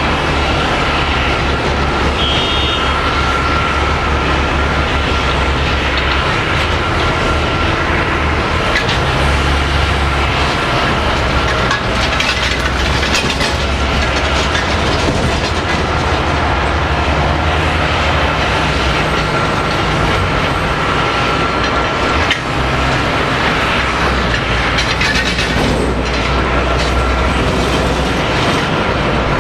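Boeing 777-200 jet engines running loud and steady, a constant rushing noise with a steady high whine over a low rumble.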